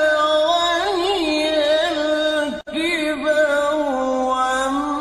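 A man reciting the Quran in melodic tilawah style, drawing out a long ornamented vowel whose pitch wavers and turns. There is a momentary break about two and a half seconds in, then the line carries on.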